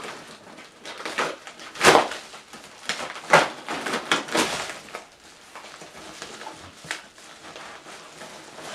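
A package being opened by hand: irregular bursts of tearing and crinkling packaging. The loudest rips come about two and three and a half seconds in, with quieter rustling between.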